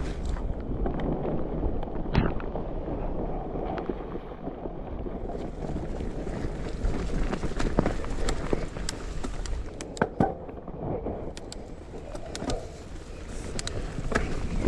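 Trek Remedy 8 full-suspension mountain bike riding down a rough dirt trail. Steady tyre rumble runs throughout, with frequent sharp clicks and knocks from chain slap and the bike jolting over bumps.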